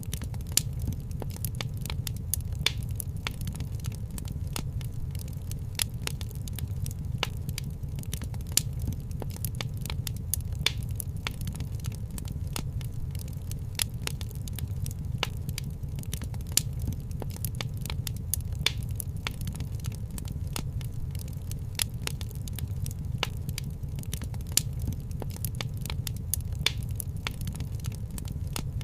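Wood fire crackling in a fireplace: irregular sharp pops and snaps several times a second over a steady low rumble.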